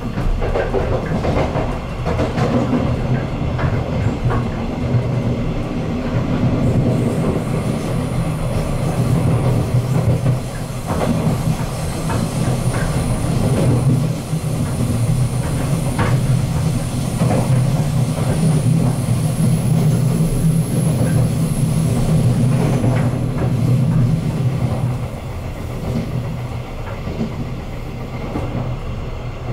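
Taiwan Railways EMU100 electric multiple unit running, heard from inside the car: a steady low rumble with occasional sharp clacks of the wheels over rail joints. A thin high-pitched whine comes in about seven seconds in and fades out a few seconds before the end, and the running noise eases slightly near the end.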